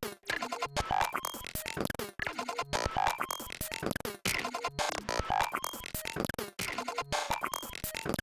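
Glitchy electronic drum groove looping, built from chopped, stuttering synth sound-design samples. It has sharp dropouts about every two seconds where the pattern restarts.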